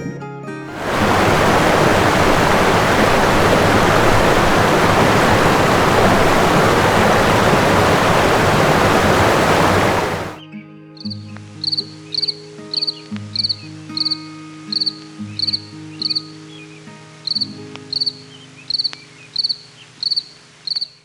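A loud, steady rushing noise like surf for about ten seconds, which stops abruptly; then a short high chirp repeated about twice a second over soft background music.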